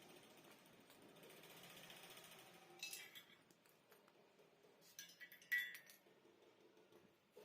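A few light metallic clinks of metal parts or tools being handled, over faint room noise; the loudest comes about five and a half seconds in.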